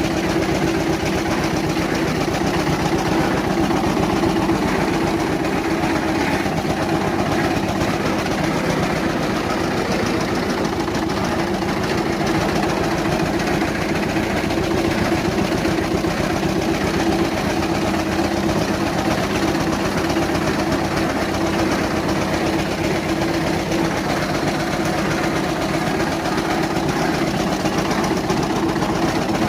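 A 1955 Eicher ED 22 tractor's engine running steadily at an even speed, its firing heard as a rapid, regular knock.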